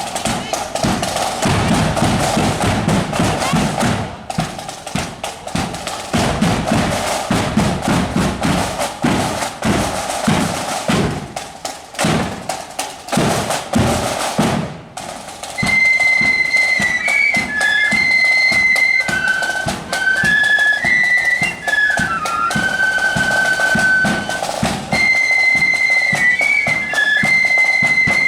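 Marching flute band: snare and bass drums beat out a drum-only passage for about fifteen seconds, then the flutes come in with a high, shrill melody over the continuing drums.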